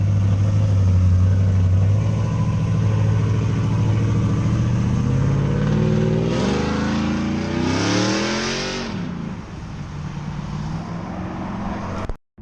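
Car engine running with a deep steady drone, then revving and accelerating away, its pitch rising several times, with a rushing hiss over it for a couple of seconds. The sound cuts off suddenly near the end.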